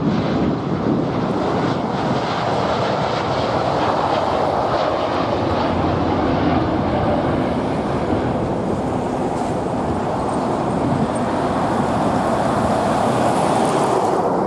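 Jet airliner's engines at takeoff power: a loud, steady rushing engine noise.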